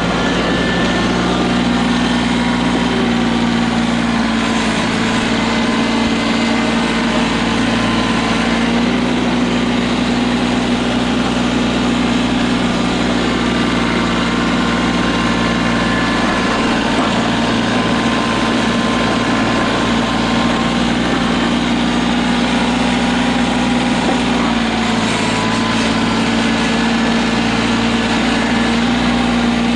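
Tractor engine running steadily while plowing snow, its note dipping and recovering a few times as the load changes.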